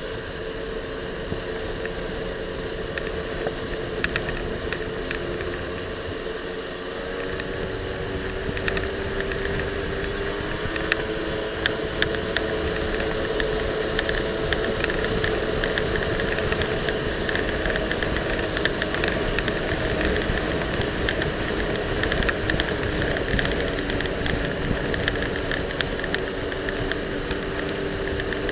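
Jet ski engine running steadily under way, its tone shifting a little now and then, over wind and water noise, with scattered sharp clicks and knocks from the loosely attached camera.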